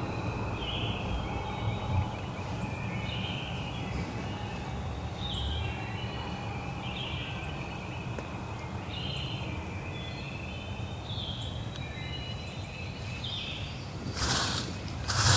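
Songbirds singing short, repeated phrases over a steady low outdoor rumble. Near the end come two loud, short rushing noises.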